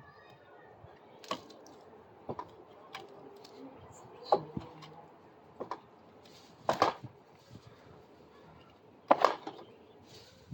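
Hand tools working on old deck boards: scattered light clicks and knocks, with three louder sharp knocks about four, seven and nine seconds in.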